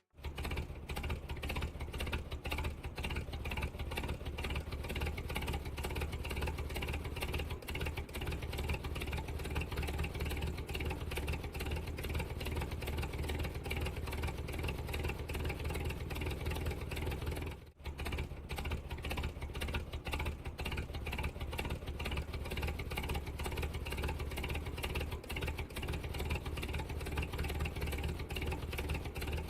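Small motor of a DIY model tractor running steadily, with a brief break about 18 seconds in.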